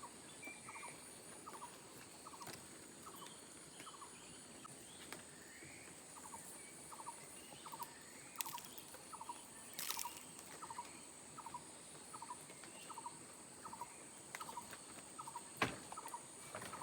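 Faint animal calls, a short double note repeated steadily about twice a second, over a steady high-pitched whine, with a few sharp clicks.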